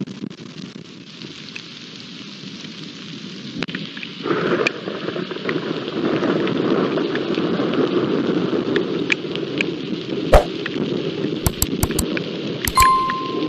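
Rain falling steadily during a thunderstorm, getting heavier about four seconds in. Near the end come several sharp knocks and a brief beep-like tone.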